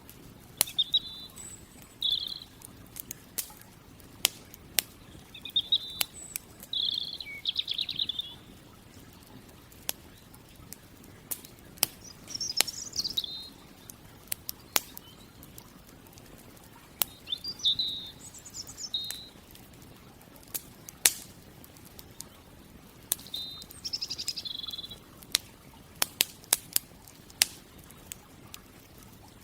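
Campfire crackling, with many sharp, irregular pops, while small songbirds give short chirping phrases every few seconds.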